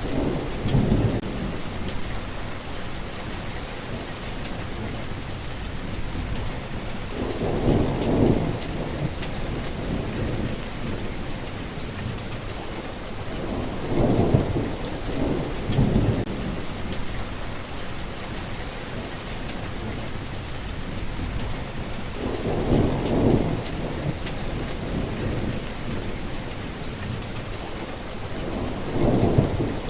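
Steady heavy rain with low rolls of thunder that swell and fade about every six to eight seconds, five times in all.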